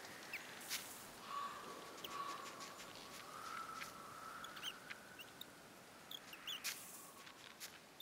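Little cartoon bird's short high chirps and peeps, with a few soft crunches of its steps in snow, over a faint wavering whistle like wind.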